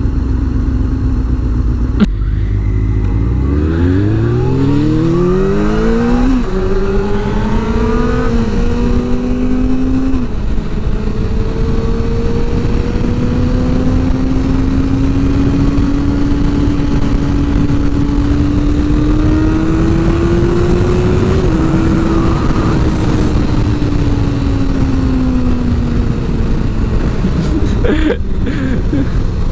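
Sport motorcycle engine idling, then pulling away hard, its note climbing steeply and dropping at two quick upshifts. It then cruises with the pitch slowly rising, shifts again, and the revs fall away as it slows near the end, over a steady rush of wind noise.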